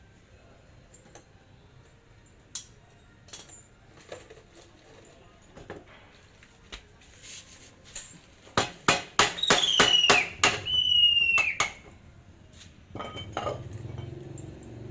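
Metal parts and tools clinking during a hand pallet truck repair: scattered light clicks, then a quick run of knocks about nine seconds in with two short squeals falling in pitch. A low steady hum starts near the end.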